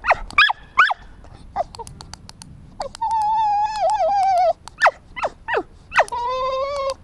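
A Cockermops (cocker spaniel–pug cross) whining and yelping: a run of short, sharply falling yelps, a long wavering whine about three seconds in, more yelps, and another long whine near the end.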